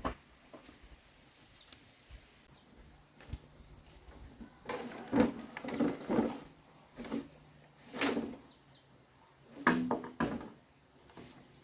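Irregular knocks and clattering of hard objects being handled, in bursts about five, eight and ten seconds in.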